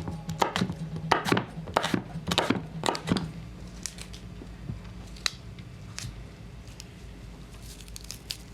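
A run of sharp clicks and taps, several a second for about the first three seconds and then only now and then, over a low steady hum.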